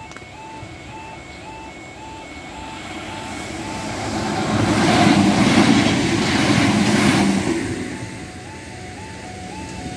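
A level crossing's warning alarm sounds a repeating two-note yodel, about two a second, which signals that a train is approaching. A Merseyrail electric passenger train comes up and passes. Its noise, with a steady hum, swells to a peak about five to seven seconds in and drowns the alarm, which is heard again once the train has gone by.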